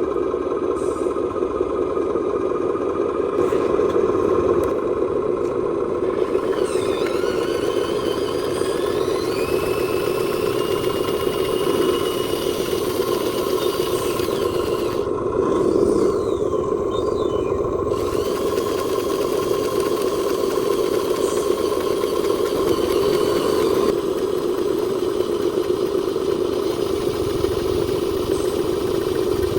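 RC scale dump truck running with a steady motor hum; about seven seconds in, a whine rises in pitch and then holds steady for several seconds.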